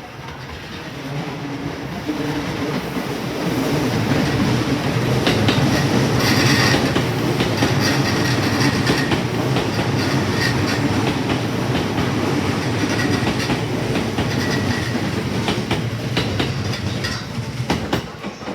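Electric train running along the platform track, wheels clattering over the rail joints with brief high wheel squeals. It grows louder over the first few seconds, holds steady and fades near the end.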